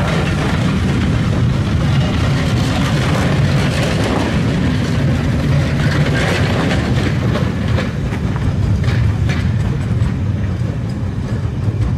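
Passenger coaches of a steam-hauled train rolling past and away, a steady low rumble of wheels on rail with scattered clicks as the wheels pass over the track, easing off slightly near the end.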